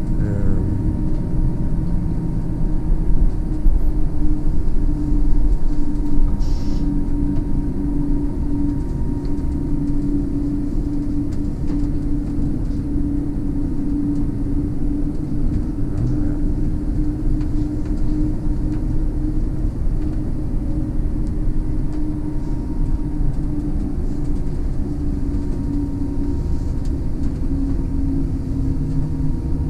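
Electric city bus driving, heard from the driver's seat: a steady low rumble from the road and tyres with a constant hum from the drive. It is a little louder a few seconds in.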